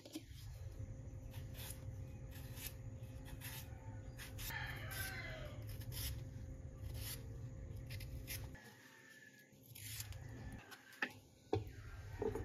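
Faint bird call, like a crow, a little over four seconds in, over a steady low hum and scattered light clicks.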